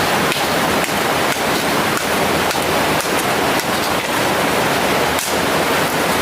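Steady rush of water flowing in a mountain stream, with faint irregular ticks on top.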